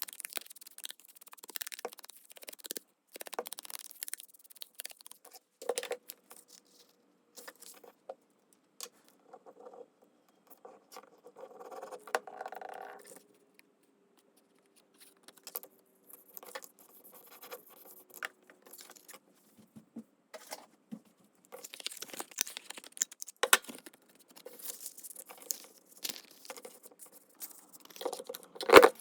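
Paper and small crafting tools handled at close range: irregular rustles, light taps and clicks. A faint drawn-out tone drifts slightly lower through the middle, and the handling gets busier near the end.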